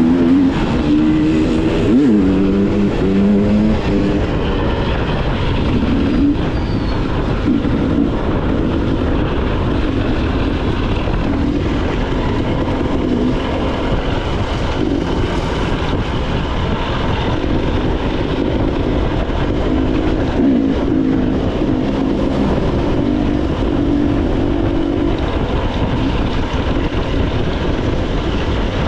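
Motorcycle engine running while riding, its pitch rising and falling a few times, over a steady rush of wind noise.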